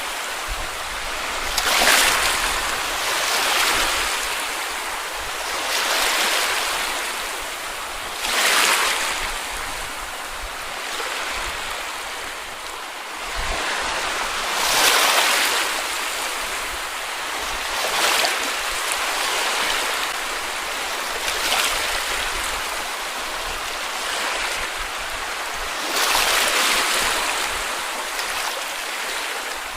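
Small sea waves breaking and washing up a beach: a steady wash of surf that swells into a louder hiss every few seconds as each wave comes in.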